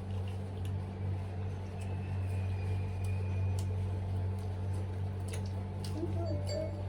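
A steady low mechanical hum, like an appliance or fan running, with a few faint clicks.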